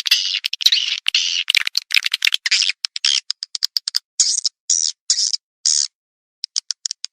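Edible-nest swiftlet calls of the kind played as a lure in swiftlet farming. Dense high twittering gives way about two and a half seconds in to rapid dry clicks and then a run of short chirps, about two a second, with dead-silent gaps between them.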